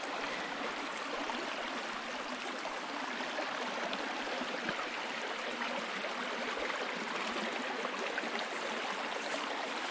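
A creek running: a steady rush and babble of flowing water.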